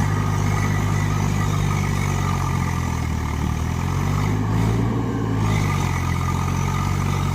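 Tractor diesel engine running steadily, its revs rising briefly about halfway through and settling back.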